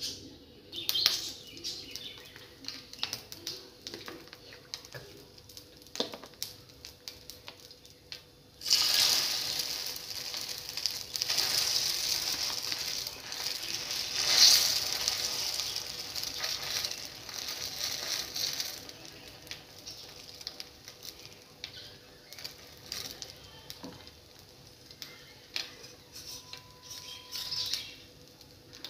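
Egg omelette batter sizzling in a hot pan: a loud hiss starts suddenly about nine seconds in, peaks a few seconds later, then eases to quieter frying. Before that, light clinks of steel spoons and utensils.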